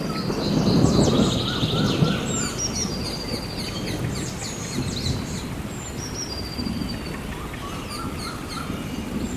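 Rainforest soundscape: a roll of thunder rumbles over steady rain in the first couple of seconds, then eases, while birds keep chirping and trilling throughout.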